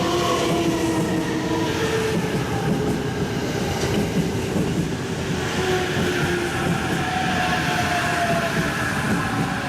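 E353 series electric express train running into the station and slowing, its motor whine sliding steadily lower in pitch over the rumble of the wheels on the rails.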